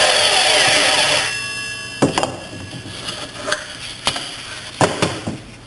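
REXON metal-cutting sliding miter saw winding down after a cut, its whine falling in pitch and dropping away about a second in, leaving faint steady ringing. Then come several sharp metallic knocks.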